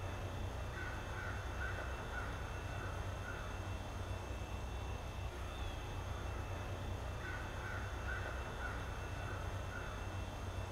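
A bird calling in two runs of about five short, evenly spaced calls, one run about a second in and one near the end, over a steady low rumble.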